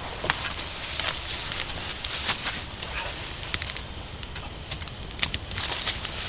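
Irregular sharp crackles and snaps over a faint steady hiss, with one louder snap about five seconds in.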